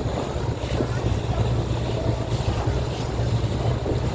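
Passenger boat's engine droning steadily under way, with water rushing along the hull and wind buffeting the microphone.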